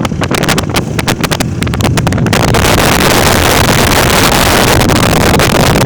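Wind buffeting the microphone: crackling gusts at first, then from about two seconds in a loud, steady rush of wind noise.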